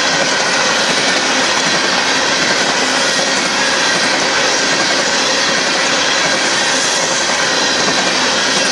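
Steady, loud rolling noise of loaded coal hopper cars in a freight train passing: wheels running over the rails with a continuous rumble and rattle.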